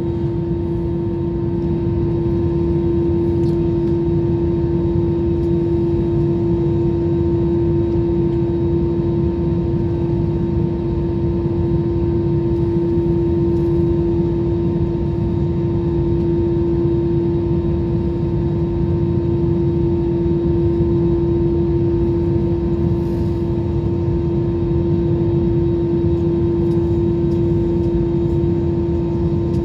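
Jet airliner cabin noise in flight: a steady engine drone and airflow rumble with a constant hum running through it.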